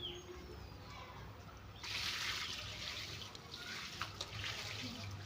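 Water running and trickling, a steady hiss that grows suddenly louder about two seconds in.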